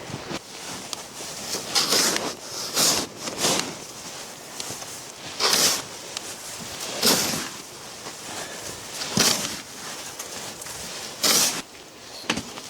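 Snow crunching in about seven separate strokes at uneven intervals of one to two seconds, over a steady background hiss.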